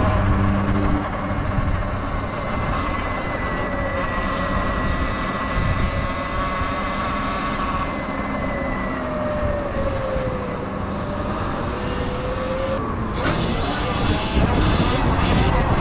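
Electric dirt bike on the move: steady wind and road rumble with a thin electric-motor whine that slides down in pitch over several seconds, then a sudden rush of noise about thirteen seconds in.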